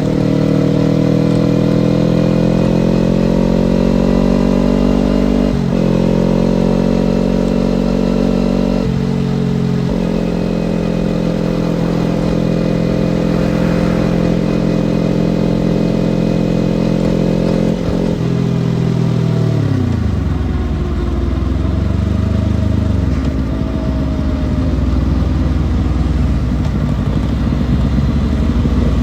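Kawasaki Ninja sport bike engine running under way, its pitch stepping up and down a few times with throttle and gear changes. About 18 seconds in the engine note falls away as the bike slows, leaving a low rumble.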